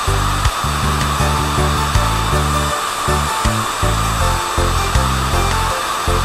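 Cartoon background music with a stepping bass line, under a steady whirring noise.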